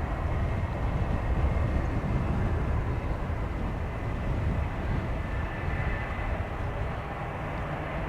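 Jet airliner engines running at a distance, a faint steady whine over low rumbling noise. Gusting wind buffets the microphone.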